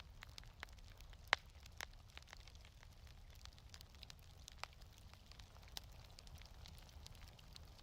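Quiet wood fire crackling, with irregular sharp pops, the loudest about a second in, over a low steady rumble.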